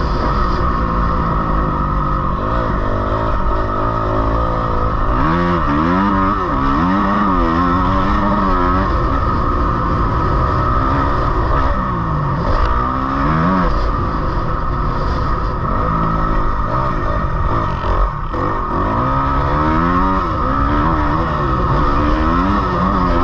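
Dirt bike engine revving up and easing off again and again as it is ridden around a motocross track, its pitch climbing and dropping with the throttle and gear changes, over a heavy rumble of wind on the microphone.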